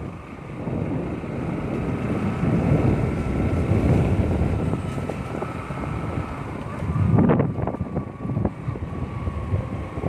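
Wind buffeting the microphone: a gusty low rumble that swells and falls, with a faint steady high whine underneath and a stronger gust about seven seconds in.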